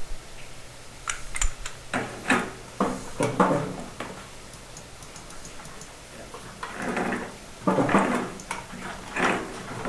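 Black iron gas pipe fittings being handled and screwed together: sharp metal clicks in the first few seconds, then several short scraping clanks as the threaded pieces are turned.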